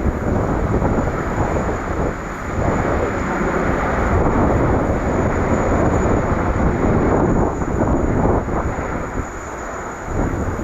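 Jet engine noise from a landing Boeing 787-10 airliner: a loud, steady rumbling roar, easing slightly near the end.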